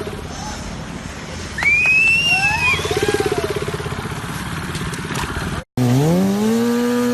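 Motorcycle engines from stunt clips: first a buzzing engine with a few high rising-and-falling squeals over it. Then, after an abrupt cut near the end, an engine revs up and holds at a steady high pitch.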